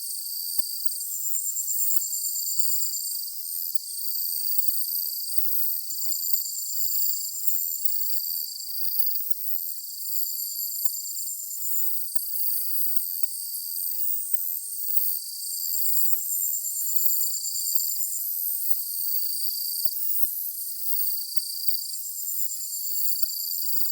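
Chorus of singing insects: several high-pitched chirps and trills overlap, each repeating in on-and-off phrases about a second long, with no low sound beneath them.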